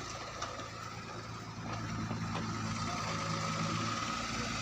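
Diesel engine of a Tata LPT 3118 cargo truck idling steadily, growing a little louder about two seconds in.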